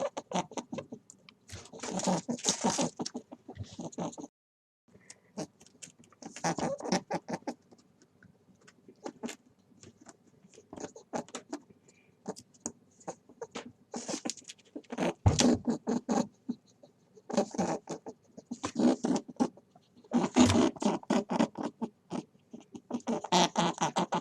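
A small pet rodent making rapid clicks and squeaks in bursts of a second or two, with short gaps between.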